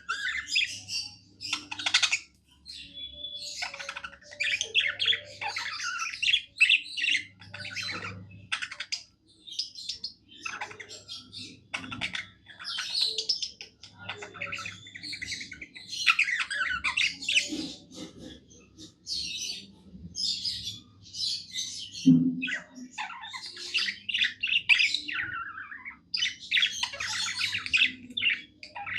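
Budgerigars singing: a continuous warbling chatter of rapid chirps, squeaks and short squawks, with only brief pauses.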